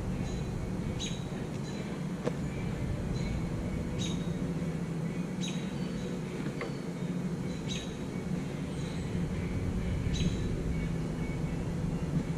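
Short, high chirps from a bird, repeated about every one to two seconds over a steady low hum.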